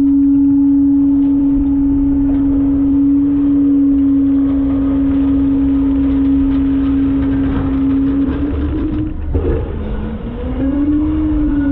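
Front load garbage truck running with a steady droning tone over a low rumble; near the end the tone wavers and dips in pitch, then climbs back.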